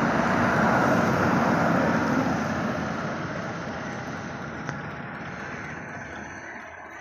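Tractor engine running hard under load while hauling a heavily loaded trolley, its sound fading gradually as it moves off.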